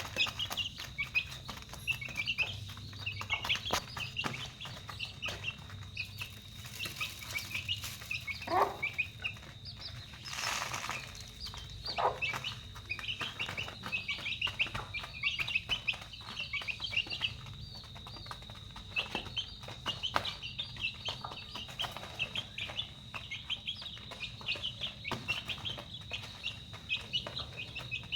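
A flock of chicks peeping continually, many short high chirps overlapping, with scattered light knocks and a brief hiss about ten seconds in.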